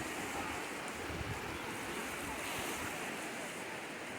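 Waves washing steadily on a lake shore, with wind buffeting the microphone.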